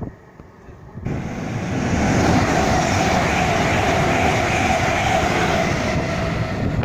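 A train going by, its rumble and rush starting abruptly about a second in, building for a moment and then holding loud and steady.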